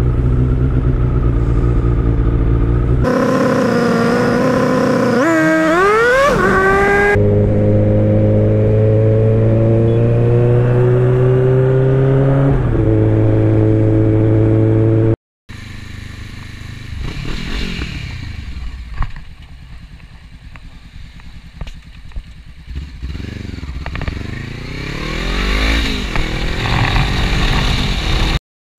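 Motorcycle engine running at speed, revving up with a rising pitch and then holding a steady, slowly rising tone. After a sudden cut, a quieter stretch of engine and traffic sound with pitches that rise and fall as vehicles pass.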